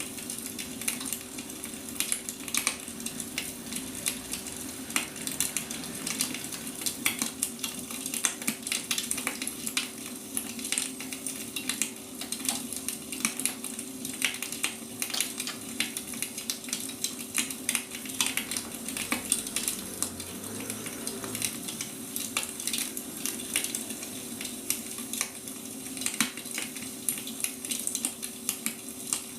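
Wood fire burning, crackling and popping irregularly over a steady hiss, with a faint steady hum underneath.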